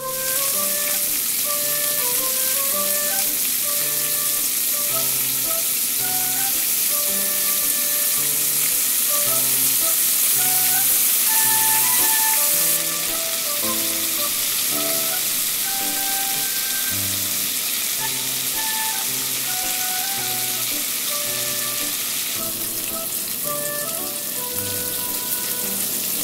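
Bacon-wrapped asparagus and quail egg rolls sizzling as they fry in a nonstick frying pan, with background music. The sizzle eases a little about halfway through.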